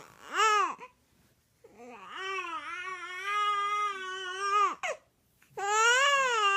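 A baby fussing and crying in three wavering wails, the middle one longest, as she protests having her hair brushed.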